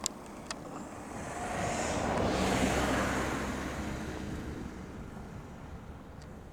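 An airplane passing overhead: a broad rushing noise that swells to a peak a couple of seconds in, then slowly fades. A few sharp clicks near the start.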